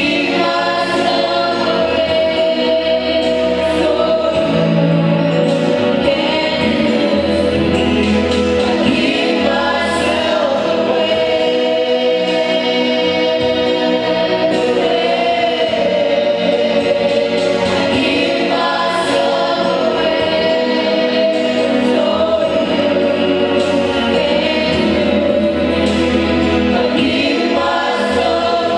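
Gospel worship song sung by a group of voices together, over instrumental backing with held bass notes that change every couple of seconds.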